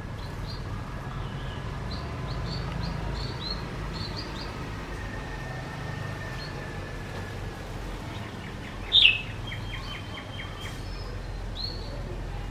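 Songbirds chirping with short, high notes, and one loud, falling call about nine seconds in followed by a quick run of ticks, over a steady low background rumble.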